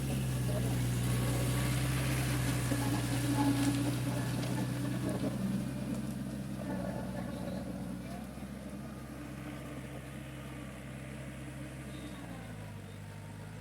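A motor vehicle's engine running with a steady hum, loudest a few seconds in and fading over the second half.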